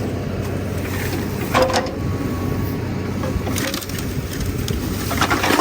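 Wood cracking and splintering in two short bursts, about a second and a half in and again near the end, over an engine running steadily.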